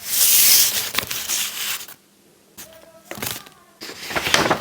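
Paper rustling and crinkling as a sheet is handled, in bursts: a loud one of about two seconds, then, after a short pause, several shorter ones.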